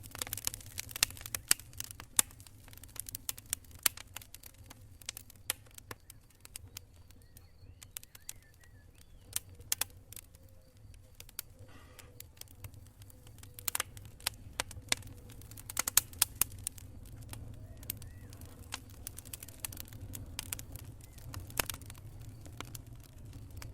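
Wood campfire crackling, with irregular sharp pops and snaps, some in quick clusters, over a low steady rumble.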